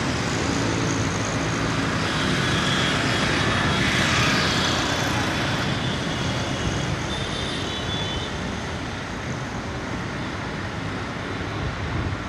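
Commuter train running on the rails, a steady rumble of wheels and track that swells to its loudest about four seconds in, with faint high squeals.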